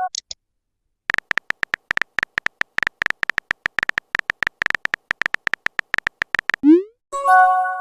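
Chat-app sound effects: a long run of rapid, short typing clicks, then a quick rising swoosh of a message being sent and a ringing notification chime near the end.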